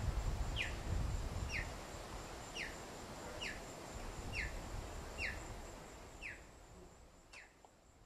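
A forest bird repeating a short, falling chirp about once a second over a soft background hiss, with a faint steady high whine behind it; the sound fades out near the end.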